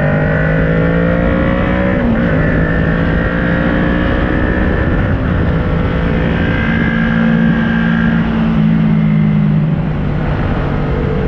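2010 Kawasaki ER6n's parallel-twin engine running through an SC Project carbon exhaust with its dB-killer fitted, pulling under load as it rises in revs. There is a gear change about two seconds in, the pitch then holds and climbs slowly, and the revs drop as the throttle eases near the end.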